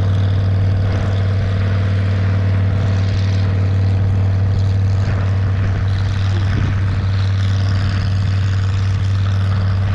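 Loud farm motor running with a steady low drone, of the kind that drives the irrigation sprinkler.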